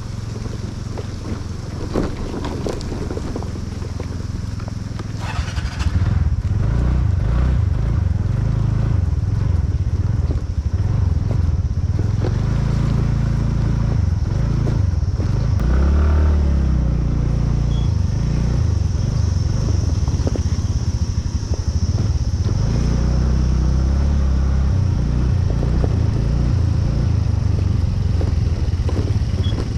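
Motorcycle engine running steadily as the bike is ridden, getting louder about six seconds in.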